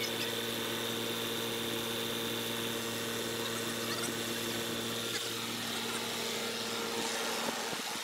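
A machine running with a steady hum and a thin high-pitched whine; one of its tones drops out near the end.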